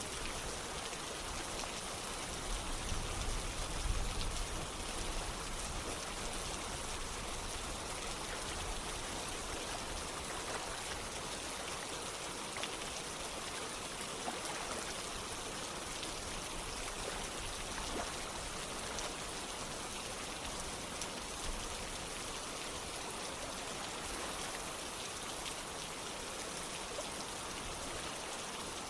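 Steady rain together with flowing water, an even hiss with the odd single drop standing out. A brief low rumble swells about three to four seconds in.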